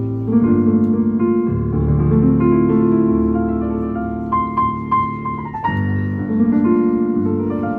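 Solo piano on a stage keyboard playing sustained chords with a slow melody above them.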